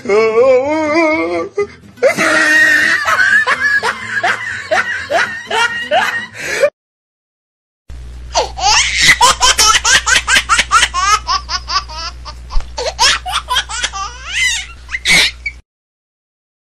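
Loud, hearty laughter in two long stretches, broken about seven seconds in by a second of dead silence, with a steady low hum under the second stretch.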